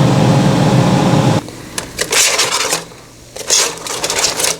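Steady humming drone of an air fryer's fan running, which stops abruptly about a second and a half in. After it come two short bursts of rustling and scraping.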